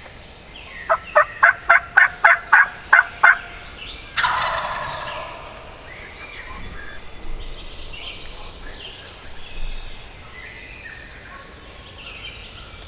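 Wild turkey calls: a run of about nine evenly spaced yelps, then, about a second later, a single loud gobble that fades out.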